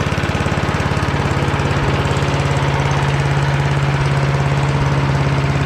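Craftsman 8.5 hp wood chipper-shredder's small gas engine running steadily at idle, its firing even, warming up on its first run after sitting about ten years and having its carburetor cleaned.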